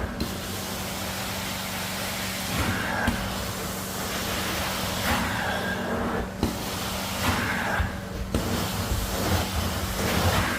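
Carpet-cleaning extraction machine running steadily with a low hum, its wand suction whistling in and out every couple of seconds as it is drawn across the wet carpet.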